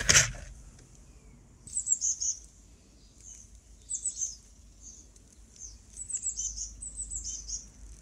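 Small birds chirping: short, high twittering calls in clusters about two seconds in, around four seconds, and again through the second half.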